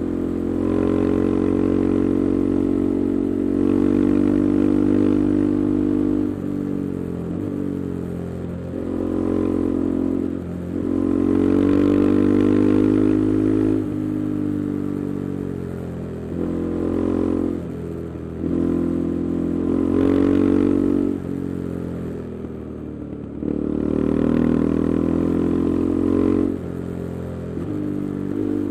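KTM 390 Adventure's single-cylinder engine through an aftermarket Arrow exhaust with the resonator removed, pulling under load while the bike is ridden. The pitch climbs and then drops suddenly every few seconds as the rider accelerates and changes gear or rolls off the throttle.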